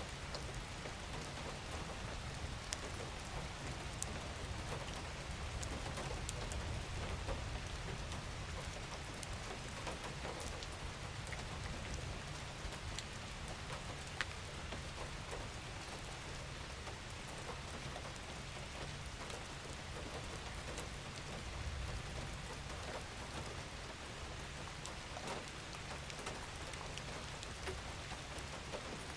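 Steady gentle rain falling on a surface, an even patter with scattered individual drop ticks over a low rumble.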